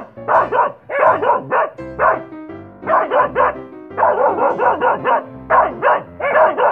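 A dog barking repeatedly, in quick runs of two or three barks, over piano background music.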